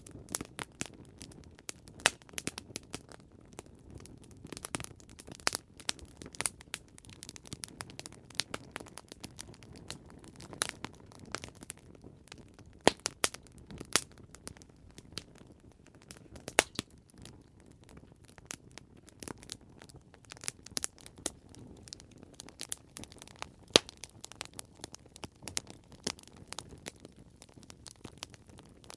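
Campfire crackling: irregular sharp pops and snaps from burning wood over a low steady hiss of flame.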